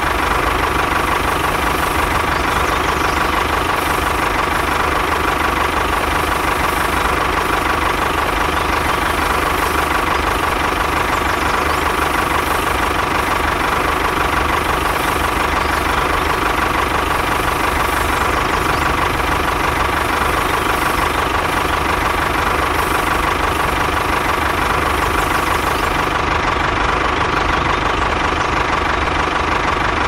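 Tractor engine idling steadily, an even, unchanging chug with a constant tone through it.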